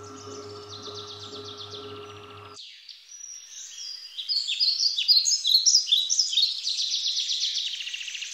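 Woodland birdsong: several small birds chirping and singing fast trills, growing louder from about four seconds in. A low steady hum underneath cuts off abruptly about two and a half seconds in.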